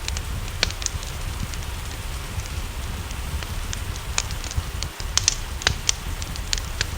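Wood fire crackling, with irregular sharp pops several times a second over a steady low rumble, mixed with the even hiss of rain.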